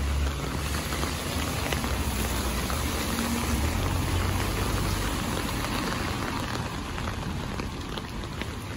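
Steady rain falling on wet pavement, with scattered drop ticks over an even hiss, and a low rumble during the first few seconds.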